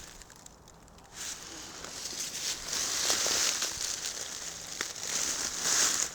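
Rustling, crackling noise that starts about a second in and carries on with small clicks and crackles.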